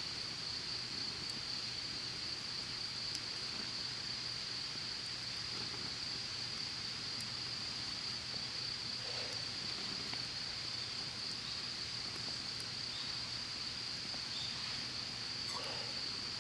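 Steady, high-pitched insect chorus, with a couple of faint short animal calls about halfway and near the end.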